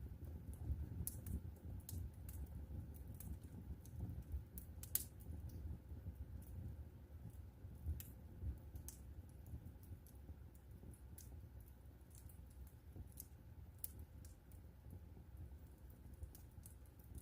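Wood fire crackling in a fireplace: faint, irregular small pops and snaps over a low steady rumble of the flames, a little busier in the first few seconds.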